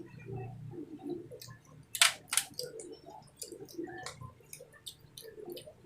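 Eating sounds: chewing with scattered sharp clicks, two louder ones about two seconds in.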